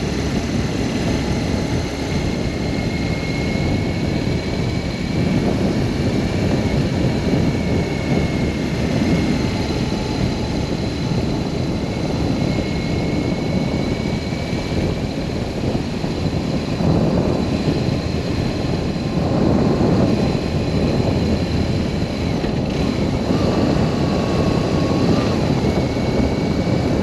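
Wind rushing over the microphone with a BMW R1200S boxer-twin engine running underneath while riding at speed. The rush swells in places, and faint steady whines sit above it.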